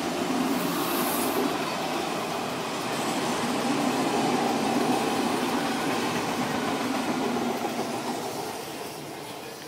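Electric commuter train passing close by, a steady running noise of the cars going along the track that fades away over the last two seconds.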